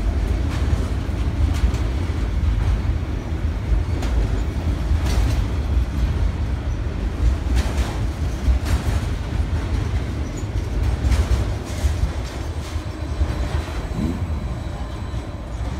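Freight train of autorack cars rolling past at close range: a steady heavy low rumble with irregular clacks as the wheels cross rail joints.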